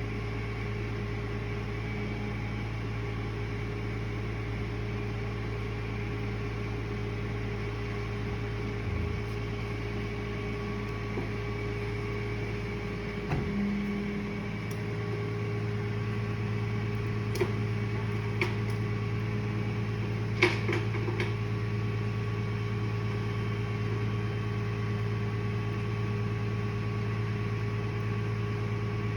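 Steady mechanical hum from a running motor or machine, its pitch shifting slightly about halfway through, with a few light clicks and knocks later on.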